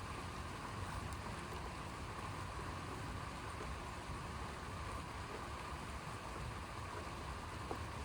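Steady rain falling during a thunderstorm: an even hiss with a low, continuous rumble underneath and no distinct thunderclap.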